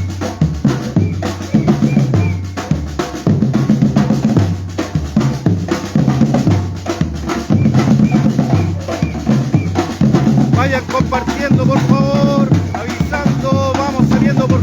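Batucada percussion group playing a steady, loud rhythm of bass drums and snares with rimshots. Pitched sounds that rise and fall join in over the drumming near the end.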